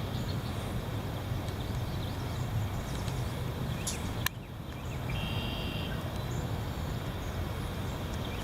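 Heavy wind blowing on the microphone: a steady low noise, with a single click about four seconds in.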